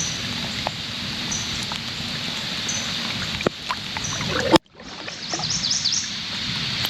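Steady hiss of water and weather around a small fishing boat, with a few light knocks and a short high chirp repeating about once a second. Near two-thirds through the sound cuts out abruptly, then returns with a cluster of high falling bird chirps.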